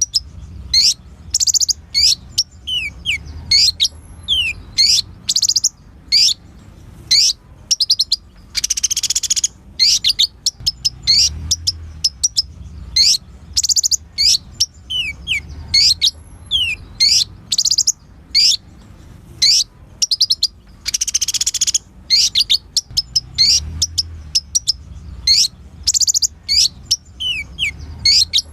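Kolibri ninja sunbird singing: a rapid, continuous run of sharp high chirps and steeply falling notes, broken twice by a longer, denser trill about twelve seconds apart.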